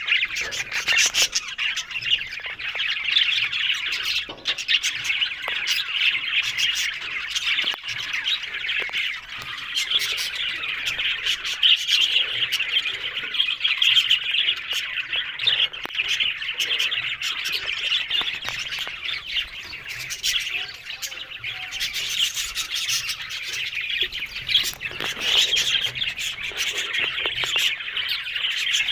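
Budgerigars chattering and warbling without a break, dense with short sharp chirps and squawks.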